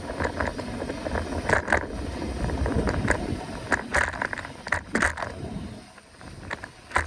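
Mountain bike rolling over a rough trail: low tyre rumble and wind buffeting the microphone, with frequent sharp clicks and rattles from the bike. The rumble drops away about six seconds in.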